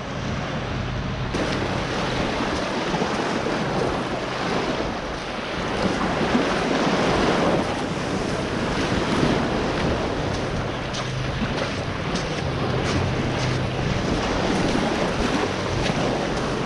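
Waves washing on a rocky shore, with wind rushing on the microphone. A wave swells louder around six to eight seconds in.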